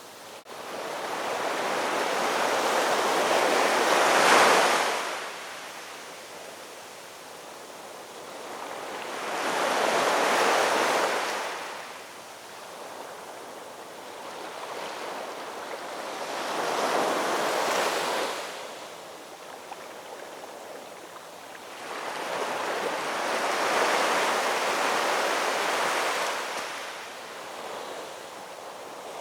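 Ocean waves surging in and washing back. Each wave swells over a couple of seconds and then fades to a softer hiss, four times, about every six to seven seconds.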